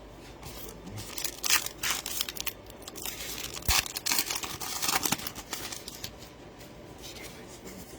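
Trading-card pack wrappers crinkling and cards being handled, with a cluster of sharp crackles from about a second and a half in to about five seconds.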